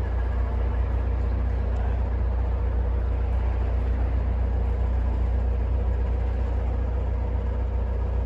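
Narrowboat diesel engine running steadily at cruising speed, a constant low rumble with a faint steady hum above it.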